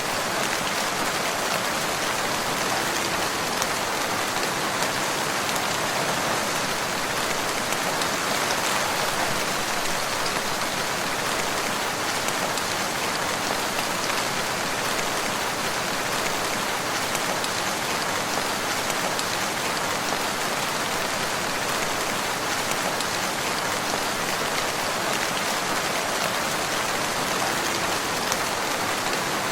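Steady rain, a dense even patter of many raindrops that stays level throughout.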